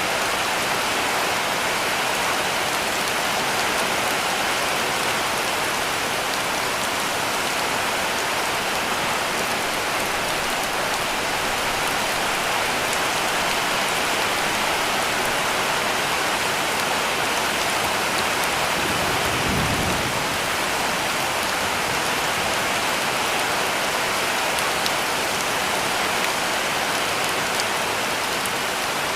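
Heavy rain falling steadily on a cabin roof, a dense, even hiss, with a brief low rumble about two-thirds of the way through.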